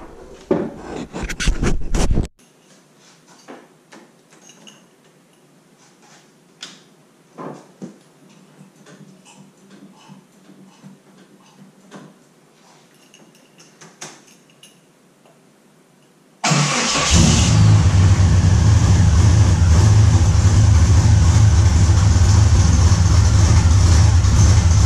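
Cammed 4.2-litre inline-six of a 1988 Jeep Wrangler YJ, fitted with a Comp Cams camshaft, suddenly coming in about two-thirds of the way through and idling steadily with a loud low rumble. Before it, a few loud knocks and clatter at the start, then faint scattered clicks.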